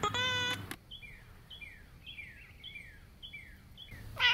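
A songbird calls over and over, about twice a second; each call is a short high note followed by a falling slur. It opens with a brief steady electronic tone, and a short, louder cry comes near the end.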